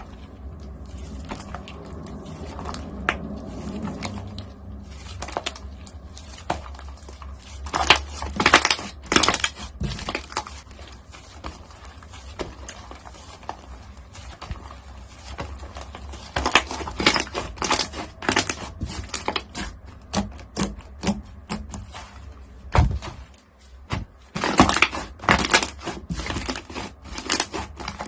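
Crunchy slime being pressed and worked by hand, crackling and popping in many sharp little clicks that come in three dense bursts.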